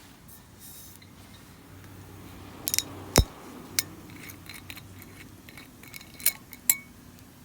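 Glassware clinking and being handled: a quick cluster of light clinks, one loud knock about three seconds in, then a few more clinks, one with a short ring near the end.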